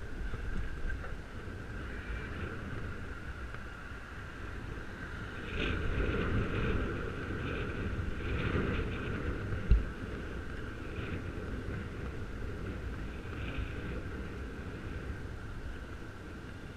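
Wind rushing over a helmet camera's microphone as a bicycle rides along, with low road rumble, louder for a few seconds in the middle, and a single sharp knock about ten seconds in.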